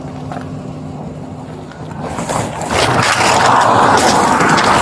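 A vehicle's steady low hum, then a loud rushing noise, wind or road noise, sets in about two seconds in, with a few sharp knocks.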